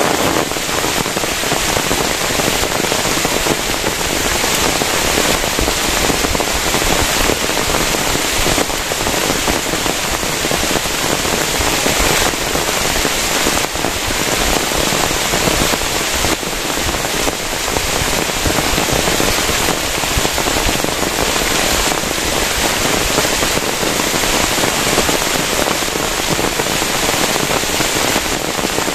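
Heavy rain falling steadily, a dense crackling patter of drops on a plastic tarp.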